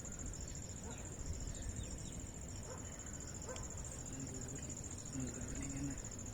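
Insects trilling steadily at a high pitch over a low outdoor rumble.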